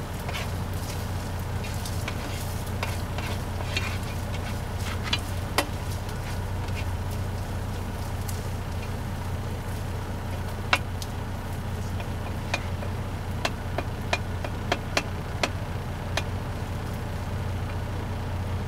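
Chorizo frying in a skillet: a faint sizzle with scattered clicks and scrapes of a utensil stirring the meat, over a steady low hum.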